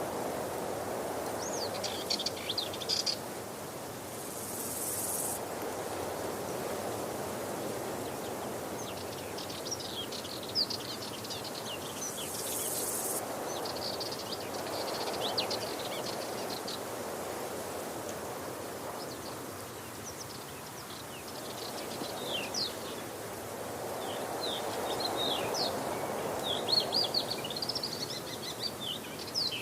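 Waterfall's steady rush of falling water, slowly swelling and easing, with small birds chirping over it in quick short calls that grow busier near the end. A brief high hiss comes twice.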